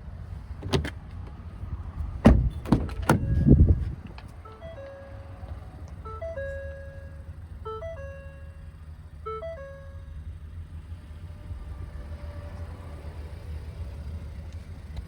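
A few sharp thumps and clicks, then a short electronic chime of a few stepped notes that sounds about four times, over a low steady hum.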